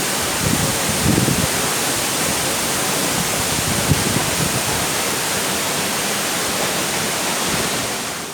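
Steady rush of a waterfall's falling water, fading out near the end.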